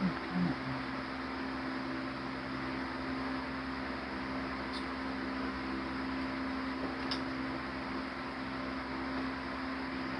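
Steady hum of an electric fan-driven cooling unit running, with a couple of faint light clicks about halfway through.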